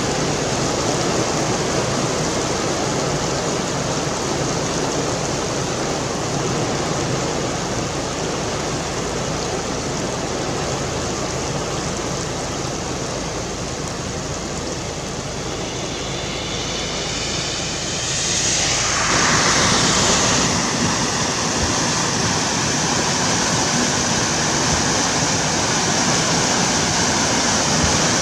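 Steady rushing of heavy rain and wind during a thunderstorm squall line. It swells louder and hissier for a couple of seconds about two-thirds of the way through.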